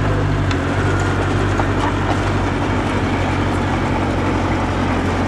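Diesel engine of earthmoving machinery running steadily at an even low pitch, with a few faint clicks over it.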